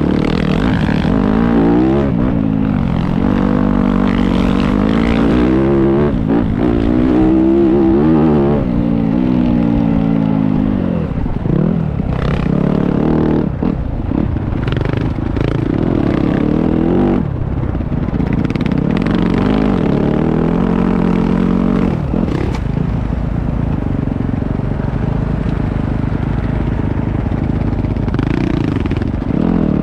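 Motocross bike engine revving, its pitch rising and falling again and again as the throttle opens and closes; it runs steadier over the last several seconds.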